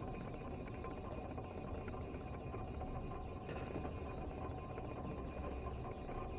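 Steady machine running noise from a home-built CNC milling machine with a Kress router spindle, with a faint steady tone over a low rumble.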